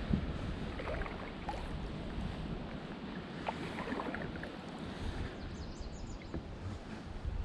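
Kayak paddle dipping and splashing in the water a few times, irregularly, with wind rumbling on the microphone.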